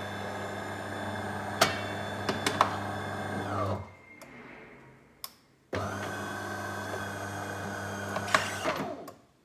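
De'Longhi Dinamica coffee machine running its switch-off cycle: two spells of steady humming, each about four seconds long with a short pause between, and a few sharp clicks.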